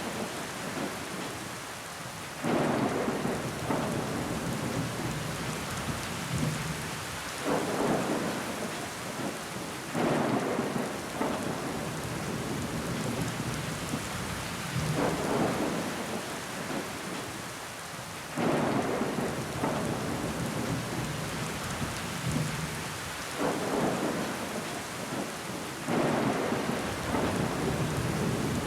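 Rain pattering against a window pane: a steady hiss that swells louder every few seconds.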